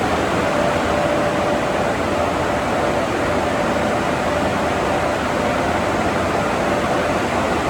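Car wash tunnel equipment running: a loud, steady rushing noise with a faint steady whine from about half a second in.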